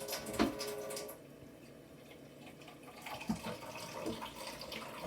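Water from a tap running and splashing in two short spells: one over the first second, then again from about three seconds in. A little water is being fetched for the sauce.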